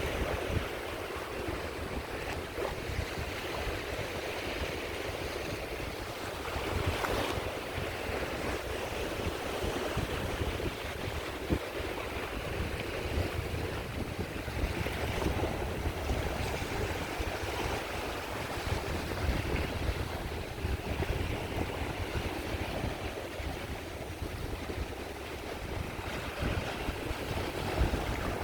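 Waves washing onto the shore in gentle, overlapping swells, one breaking a little louder about seven seconds in, with a low rumble of wind buffeting the microphone throughout.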